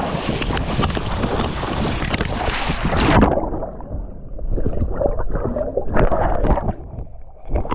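Strong wind buffeting the microphone in a loud, rough rush that drops off sharply in its high hiss about three seconds in, then carries on lower and more uneven.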